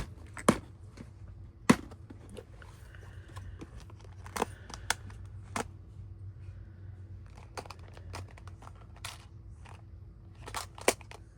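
Paper handling and crinkling, with scattered sharp clicks and taps of small craft pieces against paper and tabletop.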